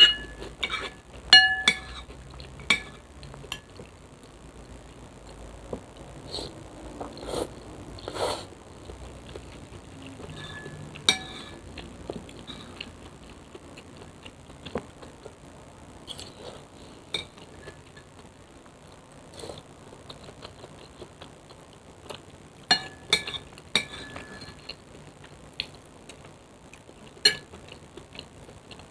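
Eating sounds from a mukbang of soupy spicy noodles: cutlery clinking against the bowl now and then, in a few clusters of short clinks, some briefly ringing, with quieter eating noises between.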